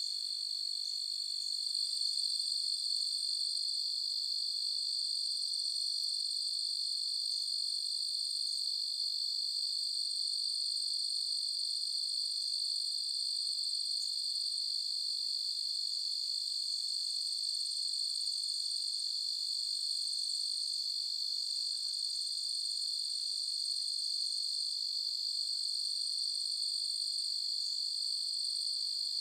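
A night chorus of crickets chirping: an unbroken, steady high-pitched trill that gets a little louder about two seconds in.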